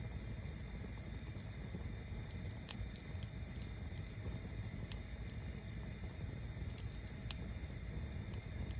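Wood bonfire built as a stacked log tower, burning with a steady low rumble and scattered sharp crackles and pops, three of them louder than the rest.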